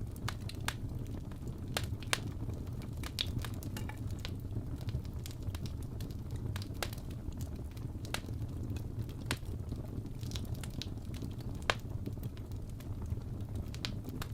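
Wood fire burning in a fireplace: a steady low rumble of flame with irregular sharp crackles and pops from the burning logs, a few each second.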